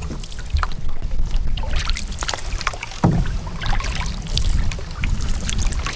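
Canoe paddle strokes in the water, with splashes and drips from the blade, over wind buffeting the microphone.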